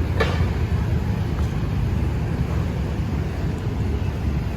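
Steady low rumble of city street traffic, with one brief sharp sound just after the start.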